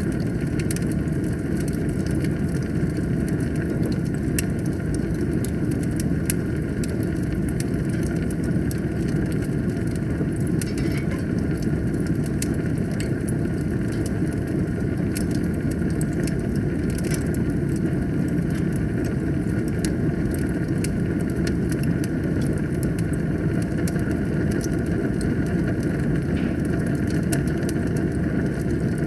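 Wood fire burning in a fireplace: a steady low rush of flames with frequent sharp crackles and pops.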